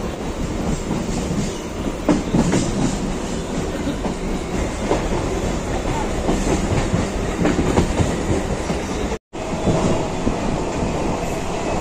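Electric suburban local train running along the line, heard from on board: a steady rumble with repeated clacks of the wheels over the rail joints. The sound drops out briefly about nine seconds in, then resumes.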